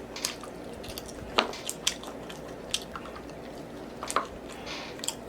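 A person eating with their mouth: wet chewing and lip-smacking, heard as a handful of sharp moist clicks, the loudest about a second and a half in and again just after four seconds.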